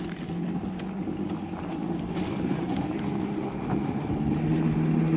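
Electric mini dirt bike's motor humming steadily under way, slowly getting louder, with wind noise on the microphone.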